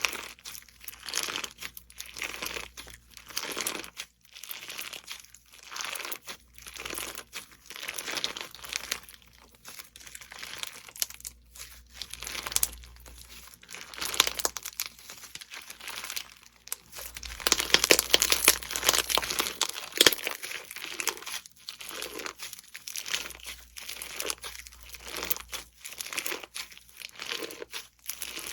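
Slime being squeezed and pressed by hand, giving off irregular bursts of crackle, densest and loudest for a few seconds past the middle.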